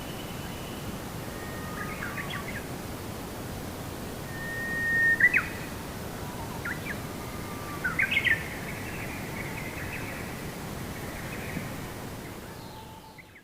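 Wild bird calling over steady outdoor background hiss: scattered short chirps and whistles, including a held whistle that ends in a quick sweep about five seconds in and a quick cluster of notes around eight seconds. The sound fades out near the end.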